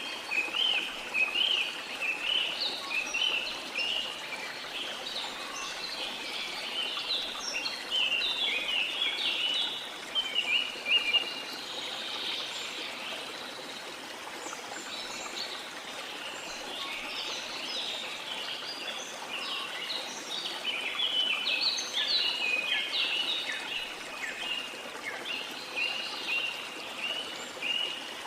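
Stream flowing steadily under a busy chorus of short, high bird chirps, which thin out for a few seconds midway and then pick up again.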